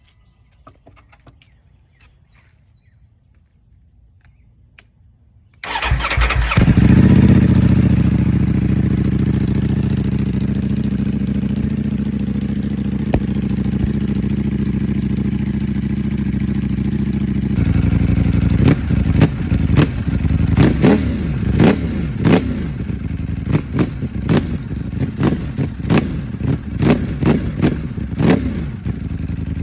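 Ducati Streetfighter V4 S's 1103 cc V4 engine, with a full Akrapovic exhaust, starting up loudly about six seconds in and settling into a steady idle. In the second half it is blipped again and again in quick revs that rise and fall.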